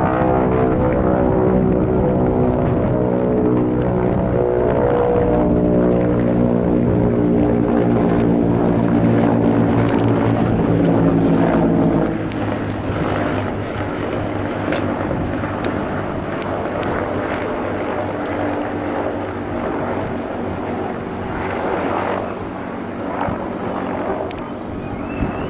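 Bell 214B-1 helicopter flying past, its main rotor making a steady beating drone made of many even tones. About halfway through the sound drops in level and the tones fade as the helicopter moves away.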